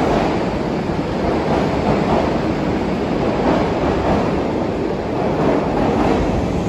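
Sydney Trains Tangara (T set) electric train departing an underground station platform. Its wheels and traction motors make a steady rumble as the carriages pass and the rear of the train draws away into the tunnel.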